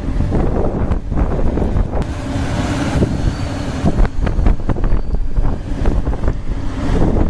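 Heavy machinery running with a deep, steady rumble, wind buffeting the microphone and scattered knocks and clunks throughout.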